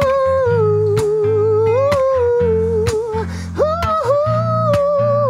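Singer holding a long wordless vocal line over strummed acoustic guitar. The voice rises about two seconds in, breaks briefly past the middle, then comes back higher and falls away near the end.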